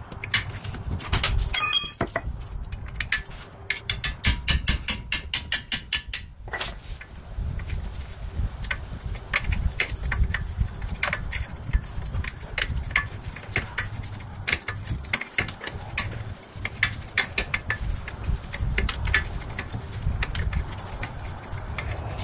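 Metal tools and car suspension parts clanking and clicking as the lower control arm is worked free: a metallic clang with a brief ringing about two seconds in, a run of rapid, even ratchet-wrench clicks a few seconds later, then scattered knocks and taps.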